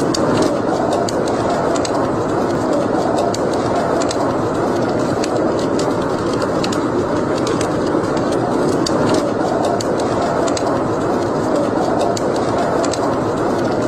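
Wood fire burning in a fireplace, crackling with frequent small sharp pops over a steady rushing sound.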